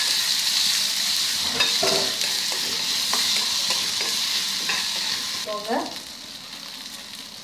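Onions, tomato and pounded masala sizzling in hot oil in a metal kadai while a metal spoon stirs them, scraping and knocking against the pan. About five and a half seconds in the stirring stops and the sizzle gets quieter.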